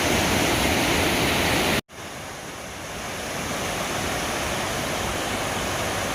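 Steady rush of a creek's waterfalls and cascades. About two seconds in it breaks off abruptly, then comes back quieter and grows louder over the next couple of seconds.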